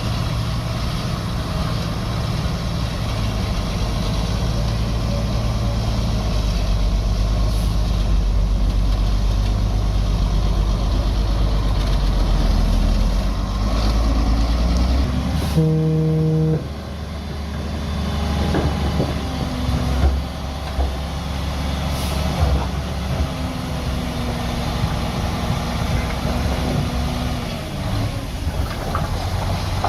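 Heavy diesel engines of a bulldozer and dump truck running steadily. About halfway through there is a brief tone, and the low engine drone drops away to a different, lighter engine note.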